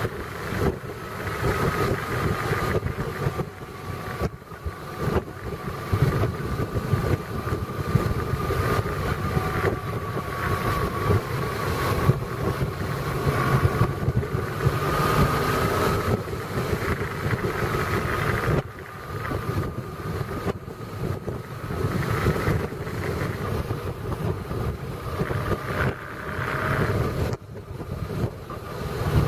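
A vehicle driving along a road, recorded on board: a steady running engine and road noise, with wind gusting on the microphone and a faint wavering whine.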